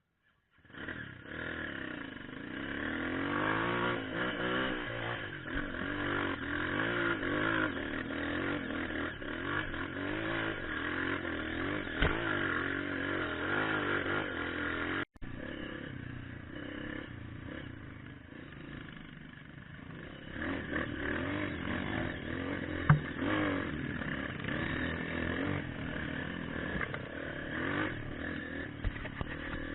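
Trail motorcycle engine running and revving up and down as it is ridden, with a brief cut in the sound about halfway and a couple of sharp knocks, the louder one late on.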